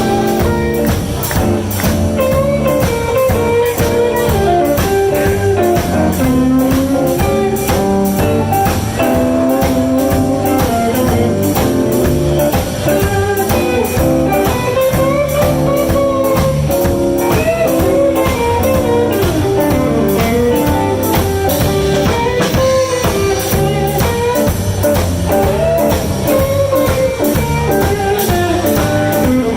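Live blues band playing an instrumental break: a lead guitar solo over bass and a drum kit keeping a steady beat.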